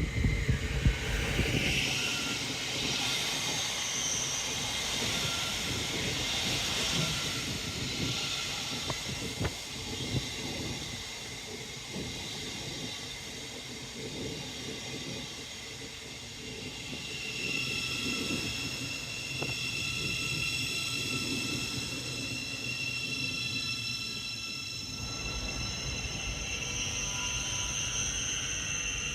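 Train running past on the main line: a steady rush and rumble of wheels on rail. About halfway through, several high steady whine tones join in and carry on to the end.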